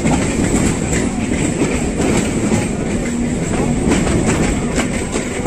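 Suburban electric local train running along the line, heard from an open coach doorway: a steady rail rumble with irregular clicks and knocks of the wheels over rail joints and points.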